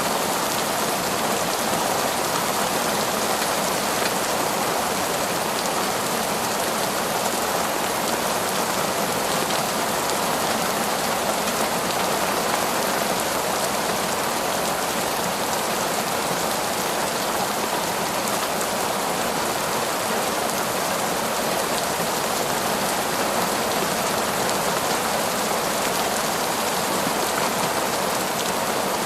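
Heavy torrential rain pouring down through forest trees, a dense, even hiss of drops that holds steady without let-up.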